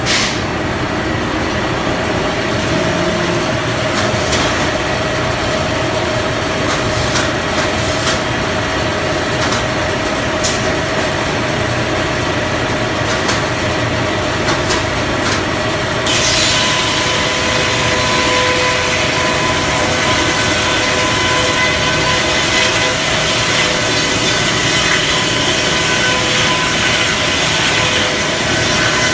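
Circular sawmill running steadily with a constant tone and scattered clicks and knocks. About halfway through the sound turns harsher and hissier and stays that way.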